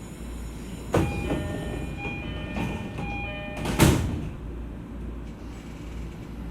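E231 series electric train running, heard from inside the car: a steady low rumble broken by two sharp loud thumps, about a second in and again near four seconds, with a ringing tone heard between them.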